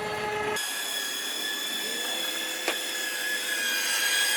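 Electric cable winch running under load as it parbuckles a log, a steady high motor whine with one sharp click partway through.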